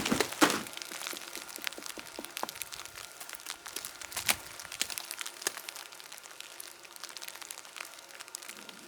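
Sleet and freezing rain hitting the ground: a patter of small, sharp ticks, with the loudest ones in the first second, growing sparser and quieter toward the end.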